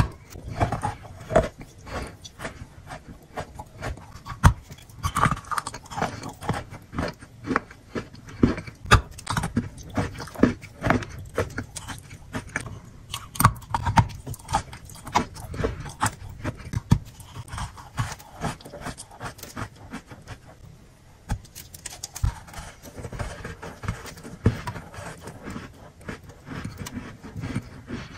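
A person biting and chewing chunks of crunchy chalk: a dense run of sharp, crackling crunches, with a brief lull about twenty seconds in.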